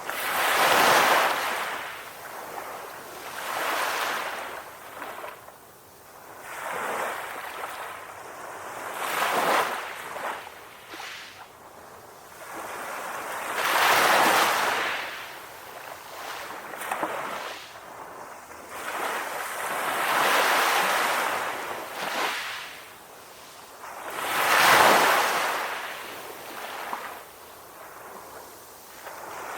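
Calm ocean waves surging and washing on the shore, a swell of surf every three to five seconds, with the loudest surges about 1, 14 and 25 seconds in.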